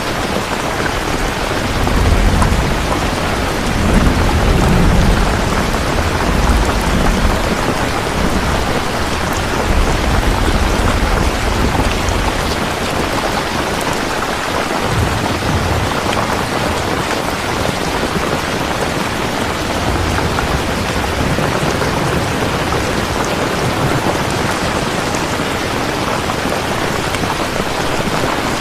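Steady heavy rain falling, with low thunder rumbling through the first half, strongest between about two and twelve seconds in.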